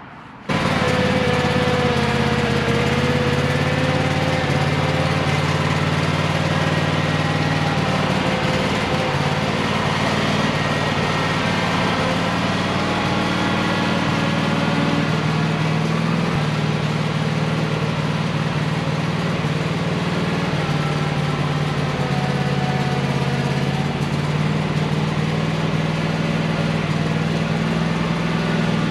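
A small engine running steadily, starting abruptly and holding one level, its pitch shifting slightly a few times.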